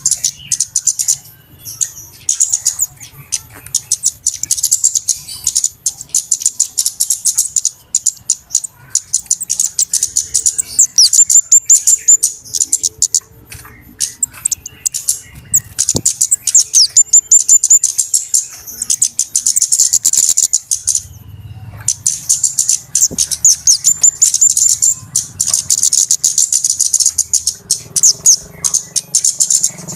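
Flowerpeckers (cabe-cabean) calling busily, a rapid stream of sharp, very high-pitched chips and short twittering trills, with a brief break about two-thirds of the way through. This is the kind of call used as a lure for small birds.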